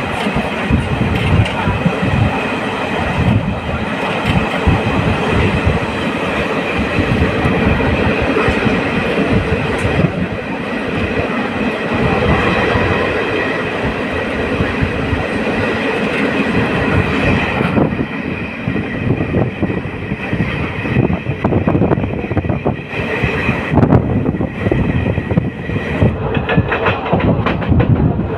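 Railway carriage wheels running over the track at speed, with a steady clatter of clicks from the rail joints and a continuous high ringing tone over the rumble.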